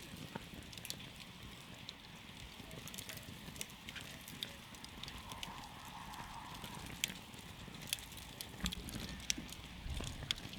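Wood campfire crackling: irregular sharp pops and snaps, several loud ones in the second half, over the steady low rush of the flames.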